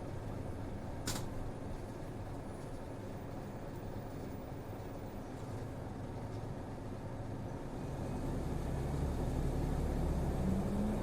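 Route bus heard from inside the cabin while driving: a steady diesel engine and road rumble, with a single click about a second in. From about eight seconds in the engine grows louder and rises in pitch as the bus accelerates.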